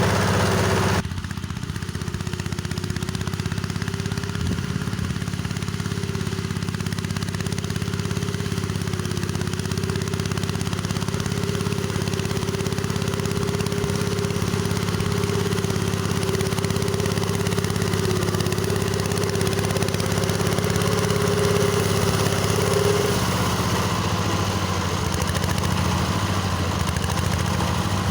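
Engine of a freshly repaired rotary mower running steadily while mowing, with a steady whine over the engine drone that stops about five seconds before the end.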